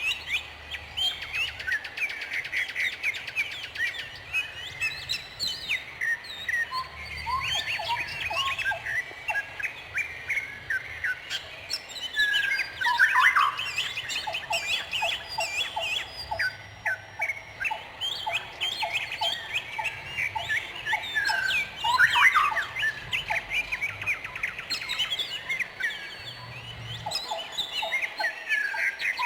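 Several songbirds chirping and twittering over one another without a break, with short runs of a quickly repeated lower note now and then.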